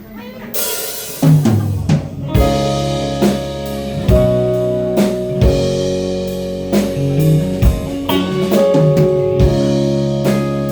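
Live rock band starting a song's instrumental intro. A cymbal wash comes first, drums and bass come in about a second in, and the full band joins with held chords over a steady drum-kit beat about two seconds in.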